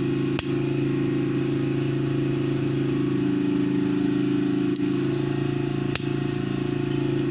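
Steady low engine drone from outside, coming in through an open window, with a few sharp clicks scattered through it.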